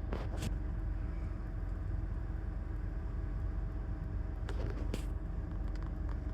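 Steady low rumble and hum of a car idling, heard from inside the cabin, with a few faint taps: a pair near the start and another pair about four and a half seconds in.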